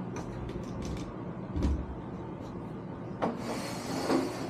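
A wooden block being fitted into a lathe chuck: scattered light clicks, a dull thump about a second and a half in, and a sharp knock about three seconds in, followed by a second of hissing rustle.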